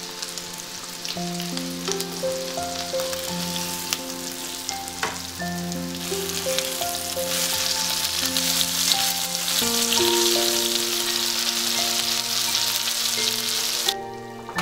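Flour-dusted chicken breasts frying in butter in a pan: a dense sizzling and crackling that grows louder about halfway through and cuts off near the end. Gentle background music with slow held notes plays over it.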